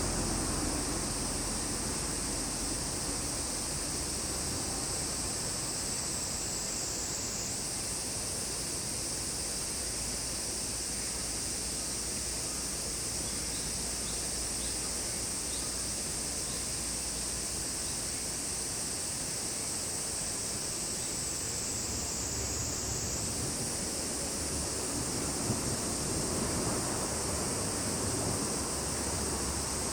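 Cicadas in a steady, high-pitched continuous drone that twice sags a little in pitch and snaps back up, over a low, steady rushing background noise.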